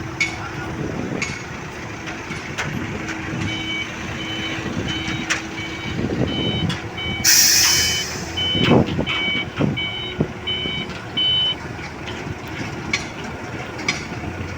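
Truck reversing alarm beeping at an even rhythm over a running diesel engine, starting a few seconds in and stopping near the end. A loud burst of air hiss comes near the middle, with scattered metallic knocks.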